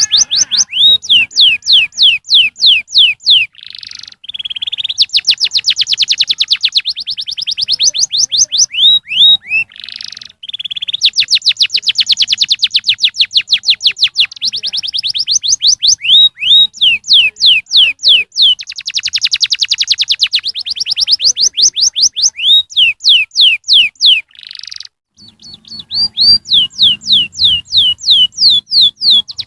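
Domestic canary singing: long rolling trills of rapidly repeated high notes, many falling in pitch, broken by short pauses and a few smooth held notes.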